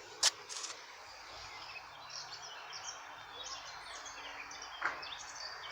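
Small birds chirping and singing, with a sharp click shortly after the start and a short knock near the end.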